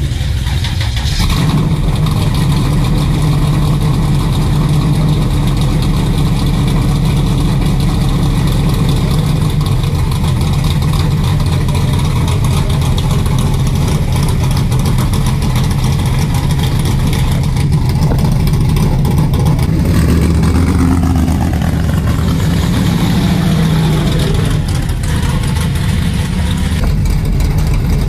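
A loud drag-racing car engine running steadily, its pitch rising and falling a few times near the end.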